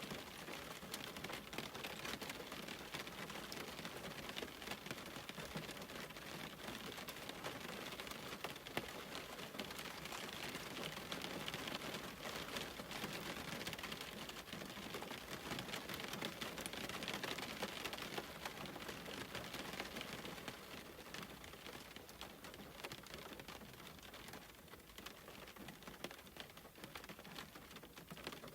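Steady rain falling, a dense patter of fine drop ticks over a hiss, easing somewhat after about twenty seconds.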